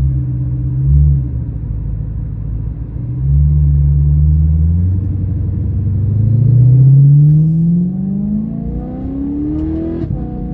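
BMW E92 M3's 4.0-litre V8 through a Valvetronics valved exhaust, burbling at low revs, then accelerating with its pitch rising steadily for about five seconds. Near the end the pitch drops as it shifts up a gear.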